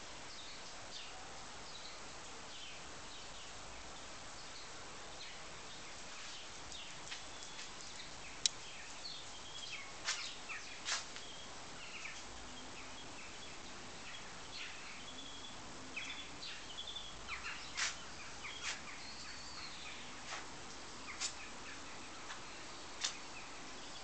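Small birds chirping and twittering on and off over a steady background noise, with a few sharp clicks scattered through.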